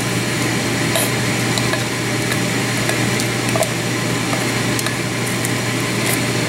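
Meat and mushroom sauce sizzling in a frying pan as it is stirred, with a few light clicks of the utensil against the pan, over a steady low hum.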